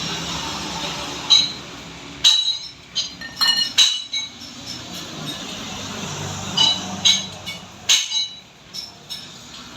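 Metal tools and parts clinking against each other in quick clusters of sharp taps, each with a brief high ring. There is one cluster from about a second in to four seconds and another around seven to eight seconds.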